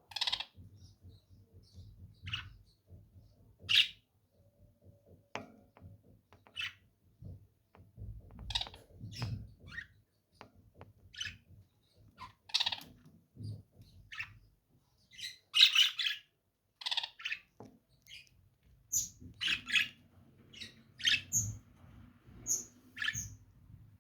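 Lovebirds calling: many short, high-pitched chirps and squawks at irregular intervals, some in quick clusters.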